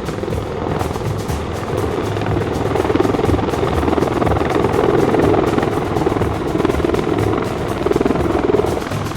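Rotor beat of military rotorcraft in flight, a continuous rapid chop that grows louder about two seconds in and eases near the end, with background music under it.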